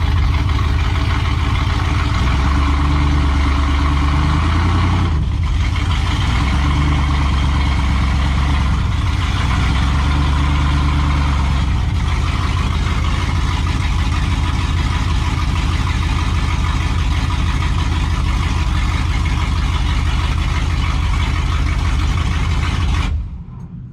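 Cammed small-block Chevy V8 truck engine running loud through an old-school exhaust, its note rising and falling a few times in the first half before settling into steady running. It cuts off suddenly near the end.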